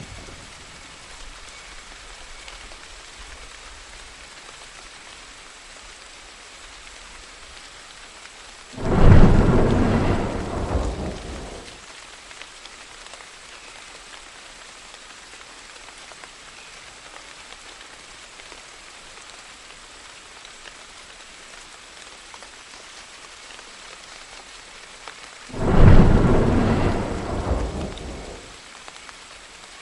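Steady rain with two claps of thunder, one about nine seconds in and another near the end, each starting suddenly and rumbling away over about three seconds.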